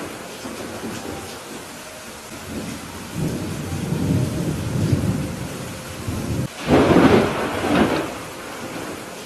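Thunderstorm: steady rain with rolling thunder. A low rumble builds in the middle, then a louder, sharper crack of thunder comes about two thirds of the way through and fades by the end.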